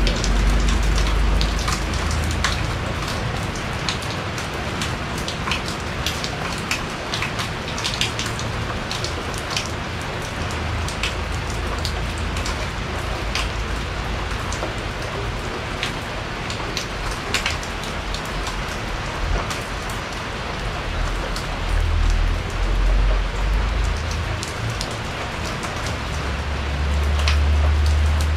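Steady rain falling on a porch, with frequent sharp drops striking close by. A low rumble swells near the end.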